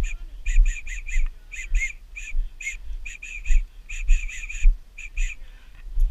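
A bird calling in short, high chirps in quick runs of two to four, stopping a little after five seconds in. Low dull thumps sound underneath.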